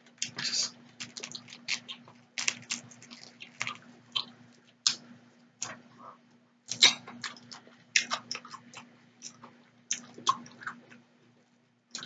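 Close-miked eating sounds from fried tilapia with the skin on: biting and wet chewing, with many sharp, irregular mouth clicks and smacks.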